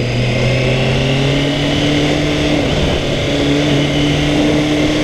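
Kawasaki ZXR400 sports bike's inline-four engine running while riding at moderate steady speed, heard from the rider's position. The engine note shifts briefly a little under three seconds in, then holds steady again.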